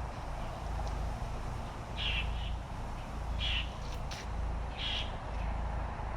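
Three short bird calls, about a second and a half apart, over a steady low outdoor rumble.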